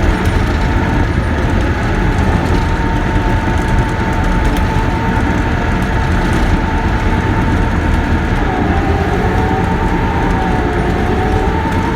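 Cat D6K crawler bulldozer working: diesel engine running steadily under load, with the clatter of its steel tracks and a steady whine that wavers in pitch in the last few seconds.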